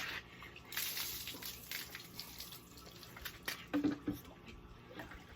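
Water splashing and dripping during a hand car wash, with a short hiss of water about a second in and scattered small clicks and drips.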